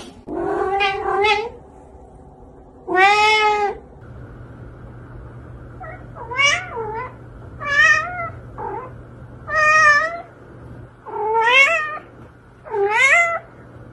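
Domestic cats meowing: a drawn-out meow and a shorter one in the first few seconds, then, over a low steady hum, a run of about six loud meows rising and falling in pitch, a little over a second apart.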